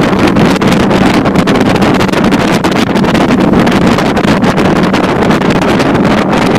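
Motorboat under way: its engine runs with a steady hum beneath a loud rush of wind buffeting the microphone.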